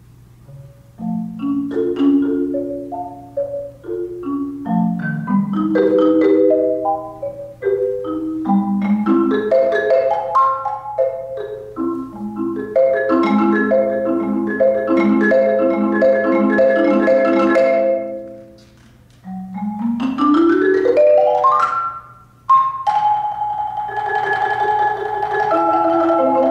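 Solo marimba played with mallets: struck notes and rolled chords, with a fast rising run of notes near the end leading into a sustained rolled chord.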